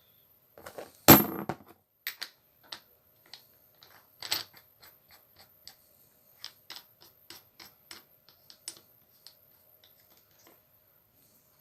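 A single loud knock about a second in, then a run of light, irregular clicks and taps as small angle-grinder parts and hand tools are handled.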